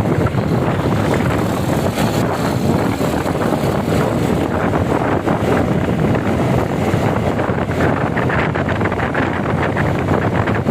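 Wind rushing over the microphone on a moving motorcycle, mixed with engine and road noise, loud and steady.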